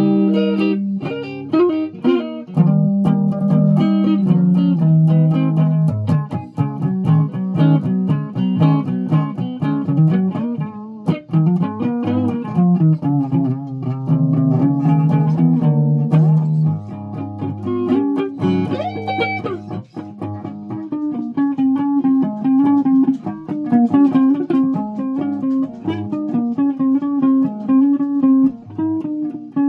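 Guitar played by plucking a run of separate notes in an uneven melody. About two-thirds of the way through, a note slides up in pitch, and after that the notes come more evenly, repeating around one pitch.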